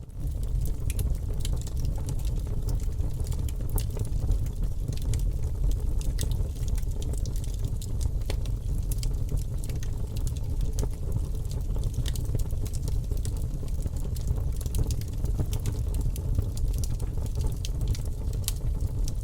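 Wood fire burning, crackling with frequent small pops over a steady low rumble.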